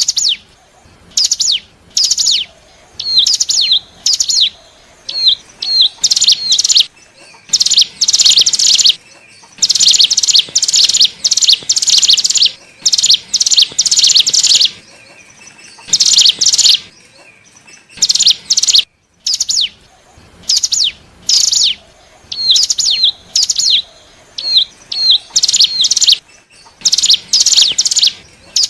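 Ciblek gunung (cigun) singing: loud bursts of rapid, high chirps in quick series, separated by short pauses, with some short downward-sliding notes; a recording of the kind played as a lure to draw in wild cigun.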